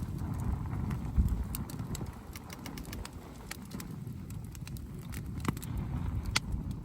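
Wood campfire crackling, with scattered sharp pops and snaps, over a low uneven rumble.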